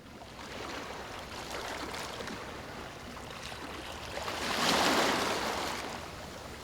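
Ocean surf washing in, with one wave swelling and breaking about four and a half seconds in, the loudest moment. The surf starts abruptly.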